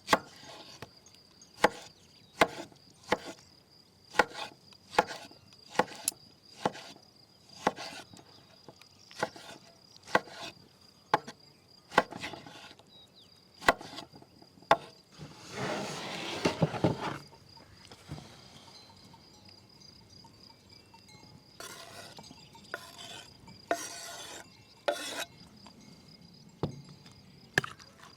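Knife cutting a tomato on a wooden board: a run of single sharp knocks, about one or two a second, with a brief rustling noise about halfway through. A steady high insect drone runs underneath.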